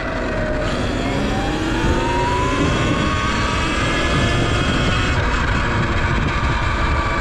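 Segway X160 electric dirt bike riding, its electric motor whining. The whine rises in pitch over the first few seconds as the bike picks up speed, then holds, over a low rush of wind and tyre noise.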